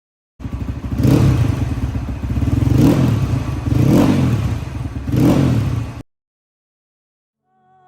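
Crossfire RM250 dirt bike engine running and revved four times, each rev rising and dropping back. The sound starts and stops abruptly.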